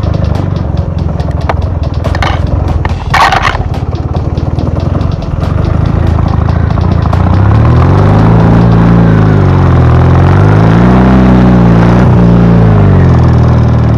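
Ural motorcycle's flat-twin engine running steadily. From about halfway it is revved up and down three times, the pitch rising and falling with each blip of the throttle. Two short scraping sounds come about two and three seconds in.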